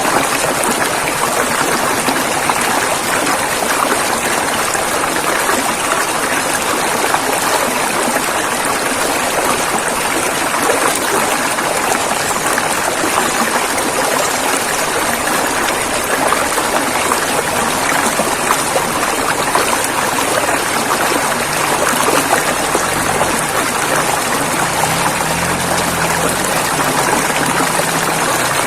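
River water flowing and rushing steadily: an even, unbroken wash of water noise. A faint low hum joins in near the end.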